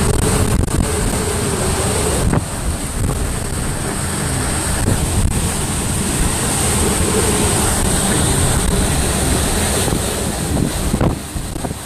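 Hurricane eyewall winds of about 120 mph blasting against the microphone as a loud, steady rush with gusty buffeting.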